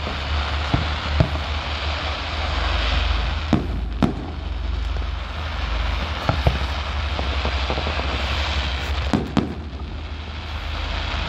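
Fireworks display: aerial shells bursting in sharp bangs, mostly in pairs a few seconds apart, over a continuous hiss and a steady low rumble.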